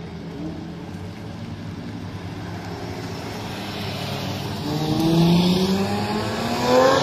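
A sports car's engine accelerating, getting louder throughout. Its pitch climbs about two-thirds of the way in and again more steeply near the end, where it is loudest.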